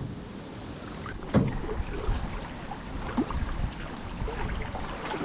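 Aluminium canoe on the move on a creek: water splashing and moving against the paddle and hull, with a sharp knock about a second and a half in and smaller clicks after it.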